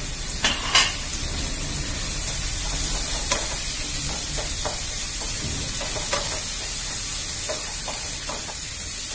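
Onion, garlic and tomato frying in oil in a kadai, sizzling steadily, while a spatula stirs in ginger and green chillies with scattered knocks and scrapes against the pan, the loudest two about half a second to a second in.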